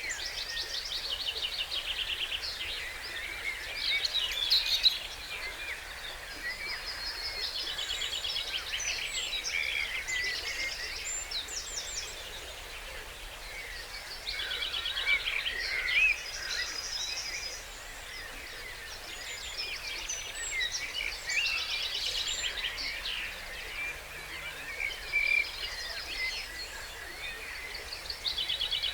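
Dawn chorus: several songbirds singing at once, with overlapping rapid trills and short phrases recurring every few seconds, over a steady background hiss.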